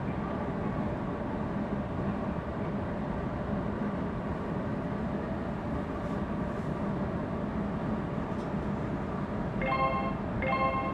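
Semboku Rapid Railway electric commuter train running, heard from inside near the front as it pulls out of a station: a steady rumble with a faint hum. Near the end a repeating pitched beeping starts, pulsing on and off.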